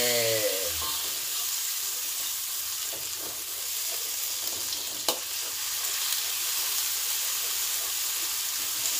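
Blended dry chili and onion-garlic paste sizzling steadily in hot oil in a wok, stirred with a metal slotted spatula. There is one sharp click about five seconds in.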